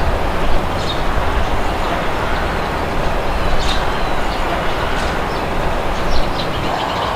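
Steady wind blowing with a low rumble, and a few short bird chirps now and then.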